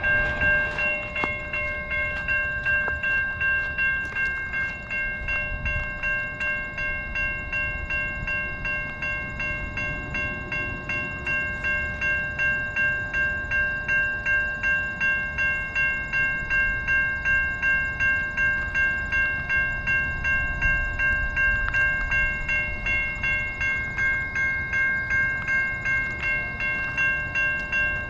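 Level-crossing bell ringing steadily, about twice a second, over the low rumble of a train rolling past on the rails.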